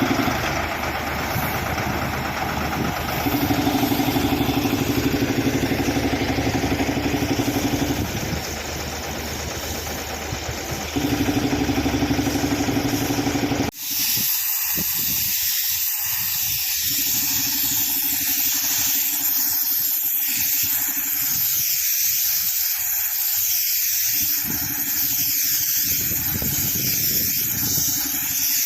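Air compressor engine running, its note stepping up and down several times. About halfway through it cuts off abruptly to a steady hiss of compressed air blasting out of a nozzle.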